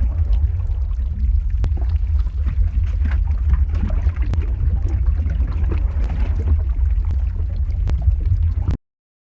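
Lava-flow ambience sound effect: a steady deep rumble with scattered crackles and pops, cutting out to silence for about half a second near the end.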